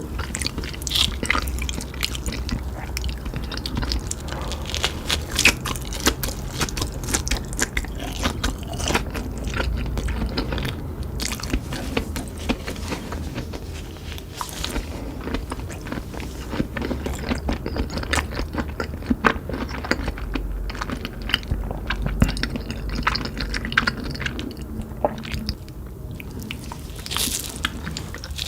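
Dense, irregular crisp crunching and crackling of Cheetos, many small cracks in quick succession.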